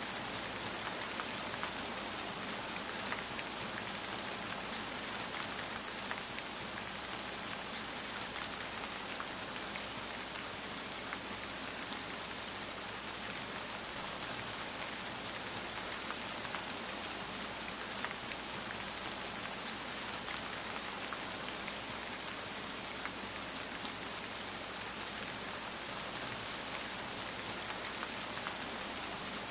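Steady rain falling on a surface, an even hiss with many small drop patters scattered through it.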